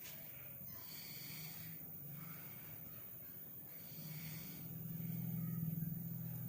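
Motorcycle engine running with a low steady rumble, growing louder in the last couple of seconds.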